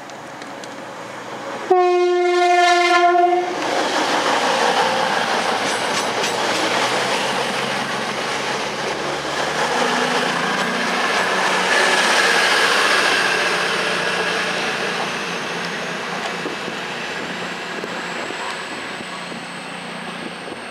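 A CrossCountry diesel passenger train sounds its horn in one long single note of about a second and a half, then runs through the station at speed, its rumble and wheel noise building to a peak about twelve seconds in and slowly fading as it goes away.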